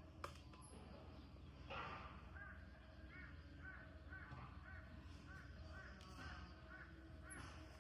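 A bird calling faintly in a run of short repeated notes, about three a second, starting a couple of seconds in and stopping near the end.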